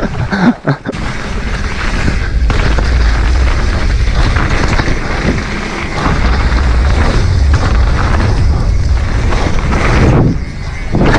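Wind buffeting an action-camera microphone and the roar of mountain-bike tyres and frame rattle on a dirt trail while riding at speed, with a short lull about a second in and another near the end.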